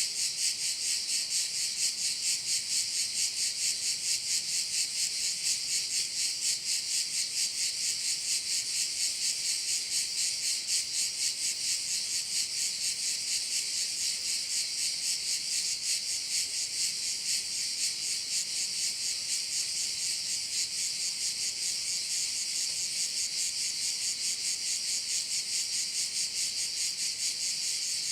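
A chorus of cicadas singing: a loud, continuous high-pitched buzzing that pulses evenly, about three times a second.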